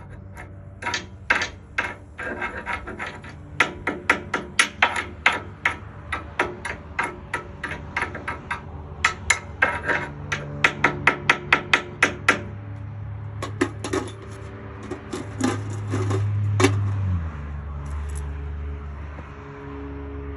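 Hammer striking steel in rapid runs of blows, two to three a second, with short pauses between runs. A steady low hum runs underneath, swells near the end and then drops in pitch.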